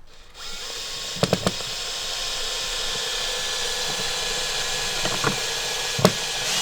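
Power drill running steadily for several seconds, with a couple of short knocks about a second in, as the lantern holder is fixed in place.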